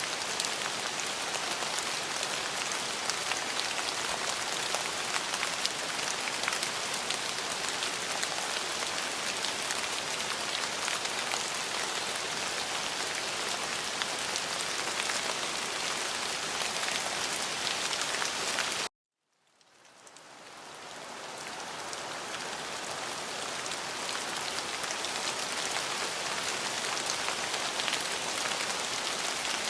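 Steady rain falling, an even hiss dotted with the ticks of individual drops. About two-thirds of the way through it cuts out suddenly for a moment, then fades back in over a few seconds.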